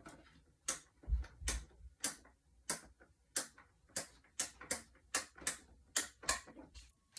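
A series of about fifteen sharp clicks, coming gradually faster toward the end.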